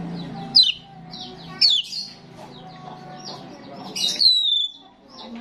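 Starling singing: three loud, sharp whistles that fall in pitch, about half a second, a second and a half and four seconds in. The last is the longest, a long downward slide. Softer chattering notes run between them.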